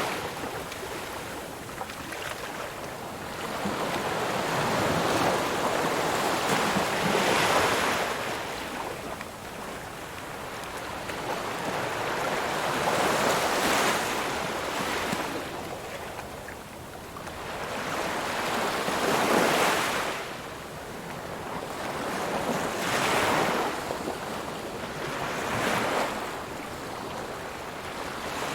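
Ocean surf: waves breaking and washing back, each one swelling up and then fading, in about five surges a few seconds apart.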